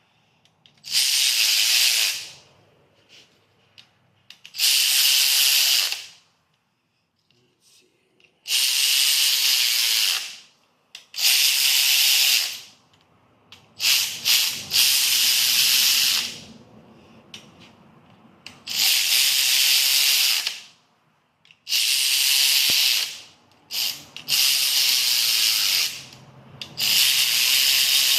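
A pneumatic tool, likely an air ratchet, hissing in about nine separate bursts of a second or two each, spaced a few seconds apart, as the 13B rotary engine's housing tension bolts are run down in a crisscross pattern before final torquing.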